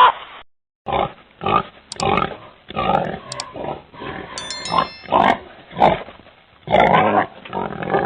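Pig grunting, a string of short grunts about two a second.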